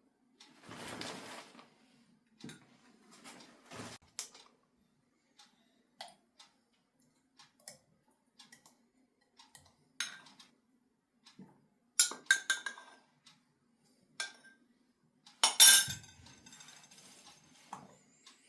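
Dishes and metal utensils being handled: scattered knocks and clinks, a quick run of clinks about twelve seconds in, and the loudest clatter with a short ring near the end.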